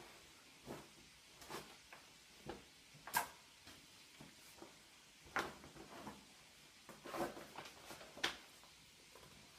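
A dog wiping itself on a mat: a run of short, irregular scuffing strokes, the loudest about three seconds in and another near the end.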